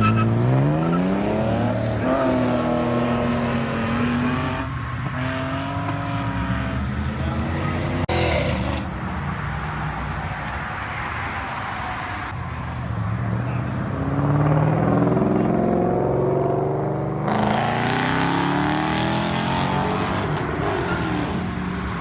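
Car engines revving hard, their pitch climbing and dropping again and again. The sound changes abruptly several times.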